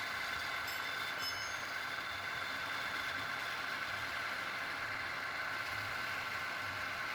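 A steady machine running, with a couple of brief high-pitched ticks about a second in.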